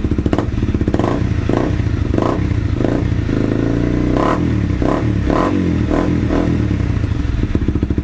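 2013 Honda CRF250L's single-cylinder four-stroke engine running loud through a newly fitted FMF PowerCore 4 exhaust and Megabomb header, idling with about nine short throttle blips. It is on stock fuelling without the fuel programmer, which the owner says makes it carry on a bit, backfiring.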